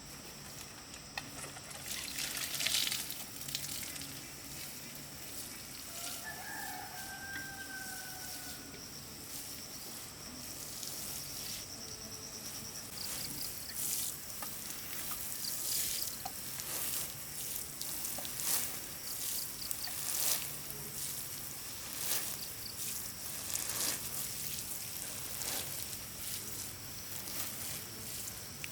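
A rooster crows once, a single drawn-out call about six seconds in, among a series of short noisy scuffs every second or two.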